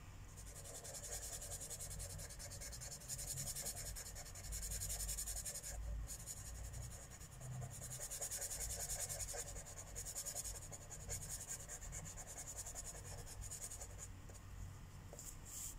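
Felt-tip marker scribbling on paper in quick back-and-forth strokes, colouring in an area of a mandala, with brief pauses about six seconds in and again after about ten seconds.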